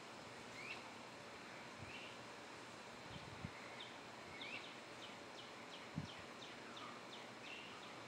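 Faint bird chirps over a steady outdoor hiss: scattered short chirping notes, then a quick run of them through the middle, with a couple of soft low thumps.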